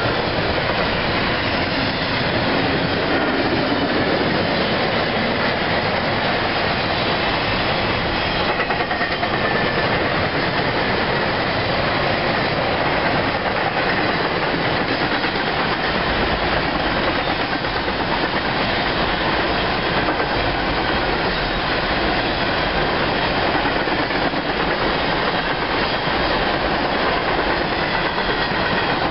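CSX freight train passing close by, its cars' wheels running steadily over the rails.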